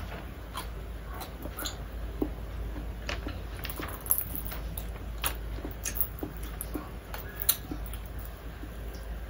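Eating sounds of a person chewing fried tilapia taken up with her fingers: irregular wet mouth smacks and clicks, a few sharper ones in the middle and later on, over a steady low hum.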